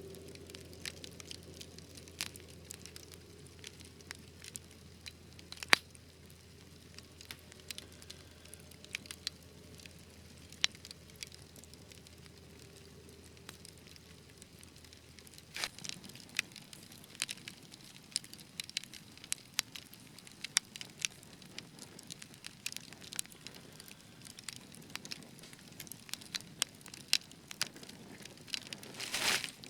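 Wood fire crackling in a fireplace: irregular sharp pops and snaps over a low hiss, with one louder pop about six seconds in and a short, louder flurry of crackling near the end.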